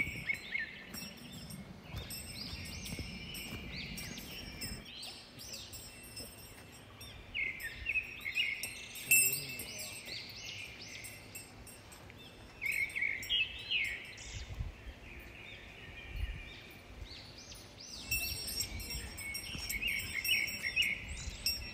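Small birds chirping in quick runs of short high notes, in several bouts a few seconds apart, over a low background rumble.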